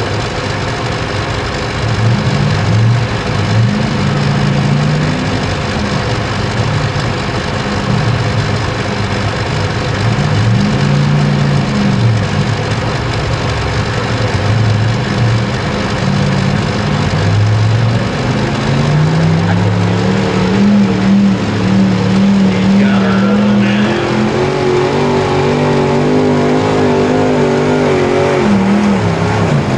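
A pulling truck's engine revving hard under load, its pitch rising and falling again and again, then climbing higher and wavering in the last several seconds.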